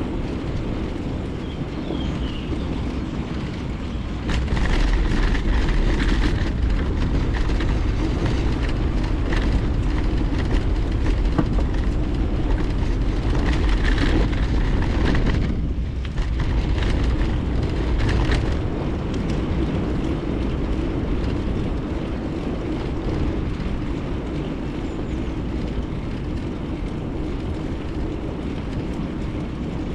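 Wind rumbling on a bicycle-mounted action camera's microphone, with the hum of bike tyres rolling over the road. It grows louder about four seconds in, with scattered clicks and rattles, and eases off again after about eighteen seconds.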